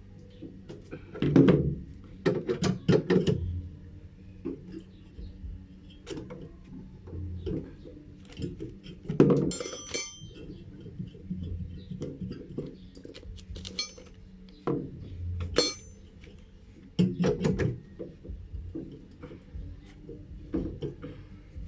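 Tools and metal parts being handled during washing-machine repair work: scattered knocks, thunks and metallic clinks, with louder clusters a little over a second in, about nine seconds in, and around seventeen seconds.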